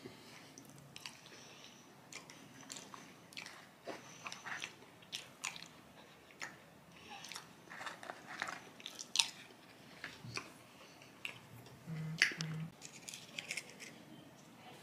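Close-up mouth sounds of a person chewing crispy fried chicken: irregular crisp crunches and wet clicks and smacks.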